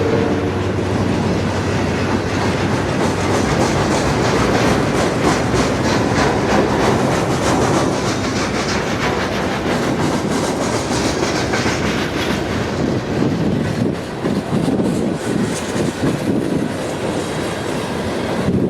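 Freight train rolling past close by, its wheels clicking in a steady rhythm over the rail joints. A horn blast trails off in the first half-second.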